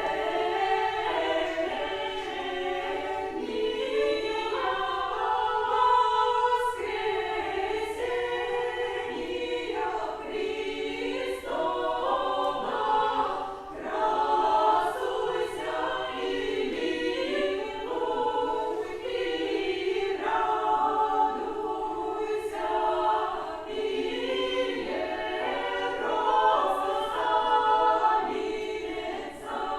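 Choir singing a cappella: several voices in harmony over a fairly steady low-middle note, in the style of Old Russian chant or folk song.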